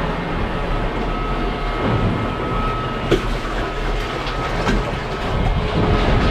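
Sailing yacht underway in a rough sea: a steady rush of wind and water with rattling and knocking aboard, and one sharper knock about three seconds in.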